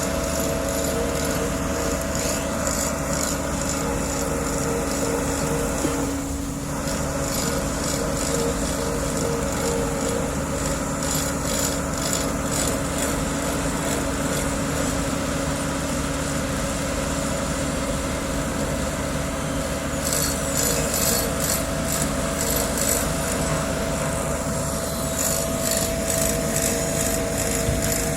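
Diesel road-paving machinery running steadily at an asphalt-laying job, a constant engine drone with a steady whine. About two-thirds of the way in, a fast, evenly repeating metallic rattle or scrape joins it.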